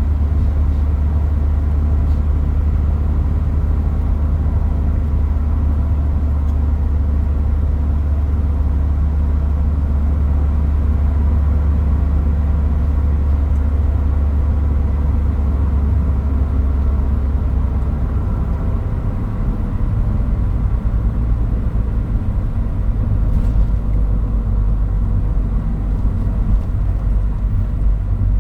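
Toyota Hilux Mighty-X pickup driving, its engine running with a steady low hum under road rumble. About two-thirds of the way through, the engine note drops to a lower pitch.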